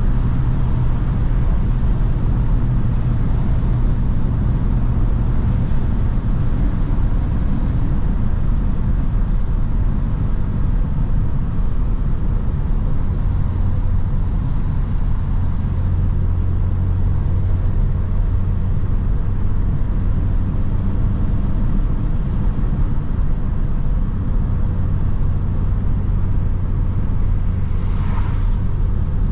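Mercedes-AMG C43's engine and exhaust droning steadily under light load while cruising at an even speed, with tyre and road noise. A short, sharper sound cuts through briefly near the end.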